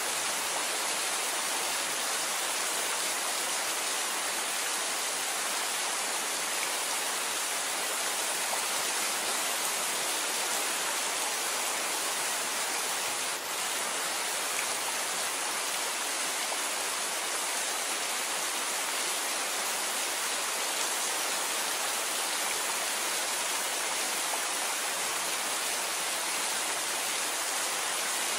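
Steady rain falling, an even hiss with no separate drops or thunder standing out. There is one brief dip in level about halfway through.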